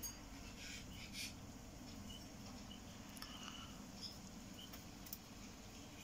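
Quiet outdoor background through an open window, with a few faint, short bird chirps scattered through.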